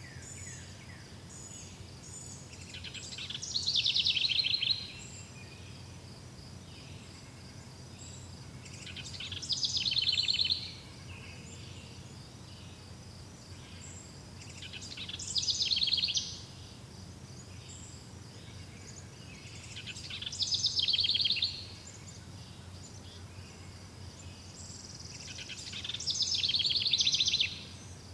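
A songbird repeating the same fast trilled song phrase five times, about every five and a half seconds, each phrase building in loudness for a second or two and then stopping abruptly. Under it runs a faint steady insect buzz and a low background rumble.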